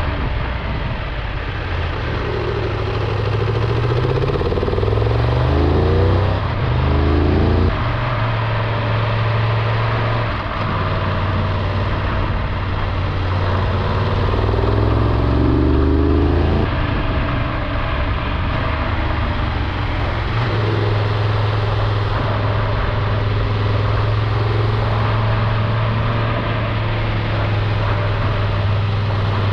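Triumph Tiger 1200 Rally Explorer's three-cylinder engine running on the move, its pitch rising and stepping through gear changes about four to eight seconds in and again around sixteen seconds, then holding steady near the end, under a constant rushing noise.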